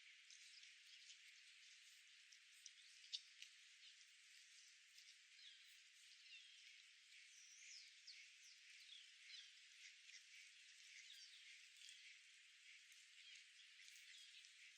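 Faint chirping and twittering of small birds, many short quick calls over a steady hiss, with a few light ticks about three seconds in.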